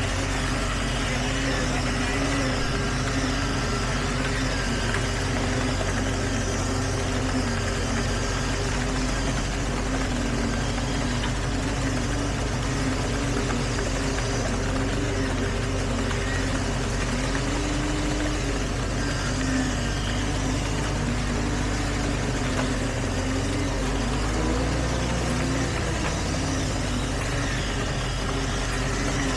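Diesel engine of heavy construction machinery running steadily, with a drone that wavers slightly in pitch. Its note shifts briefly about three-quarters of the way through.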